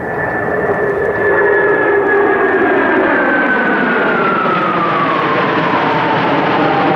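A four-ship diamond of F-15 fighter jets passing overhead: loud jet engine noise that swells about a second in, with a whine sliding steadily down in pitch as they fly by.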